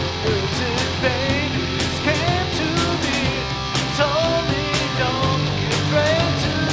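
A rock band playing live, with drums, bass and electric guitars. A wavering melodic line runs over the band.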